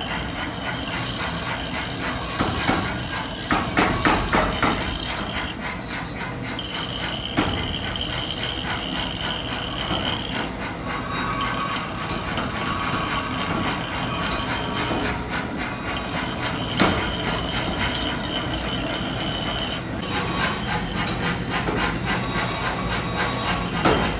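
Heavy metalworking machinery running steadily in a forge shop, with intermittent high-pitched metallic squealing and a few sharp knocks in the second half.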